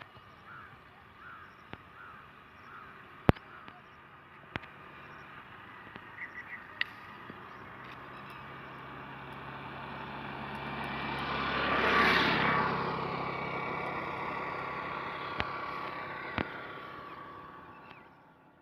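A motor vehicle passing by. It grows louder over several seconds, is loudest about twelve seconds in, then fades away, and its low engine note drops in pitch as it passes. A few sharp clicks are heard along the way.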